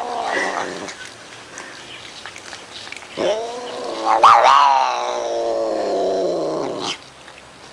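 Cat yowling: the end of one drawn-out yowl, then a long caterwaul that swoops up sharply partway through and trails off.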